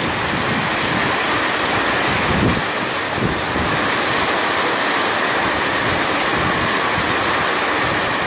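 Heavy rain pouring down steadily onto a paved street and sidewalk, a dense, even hiss of downpour.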